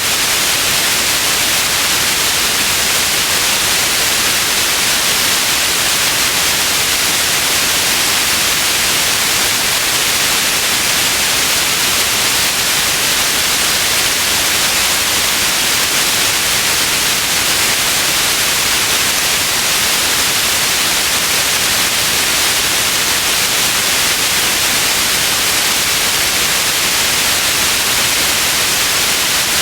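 Steady white noise: an even hiss, strongest in the high range, with no change in level.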